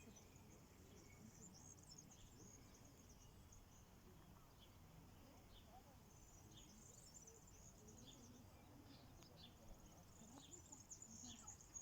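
Near silence outdoors, with faint, rapid high-pitched chirping that comes and goes in spells, over a low, even background rumble.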